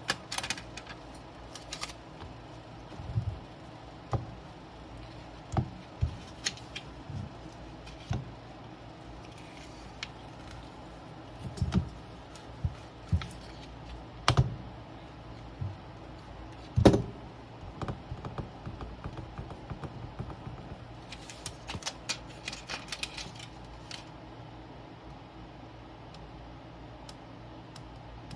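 Irregular light clicks, taps and small knocks of hand tools and parts being handled on a workbench, with one louder knock about two-thirds of the way in and a quick run of light clicks shortly after.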